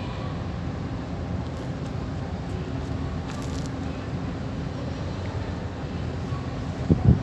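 Steady low engine rumble with a faint even hum, typical of a large ship's engines running while it docks. Near the end a loud gust of wind hits the microphone.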